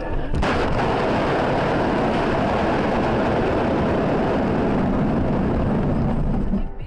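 Loud, steady rushing vehicle noise, as of road and wind noise while driving. It starts abruptly about half a second in and fades near the end.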